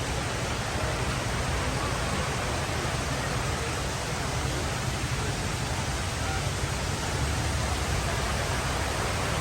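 Steady, even rush of water cascading down the walls of the 9/11 Memorial pools.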